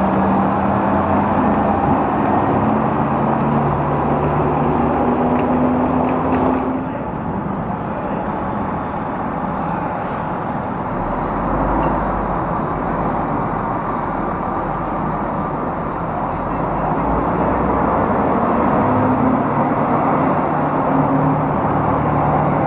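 Motor vehicles running close by in city traffic: a steady rush of engine and road noise with the low hum of engines shifting in pitch, easing off a little partway through and building again.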